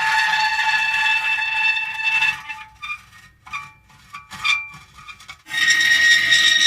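Metal creaking. A long drawn-out creak holds a steady pitch, then breaks up into short scattered squeaks and ticks a little after two seconds in. Near the end another long creak starts at a different pitch.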